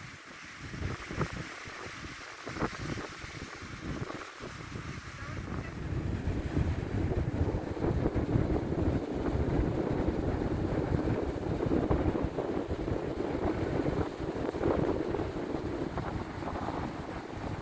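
Wind buffeting the microphone over the wash of sea waves, growing louder about six seconds in.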